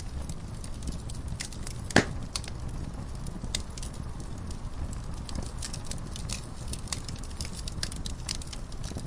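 Wood fire crackling in a fireplace: scattered sharp pops and snaps over a steady low rumble of flame, with one loud pop about two seconds in.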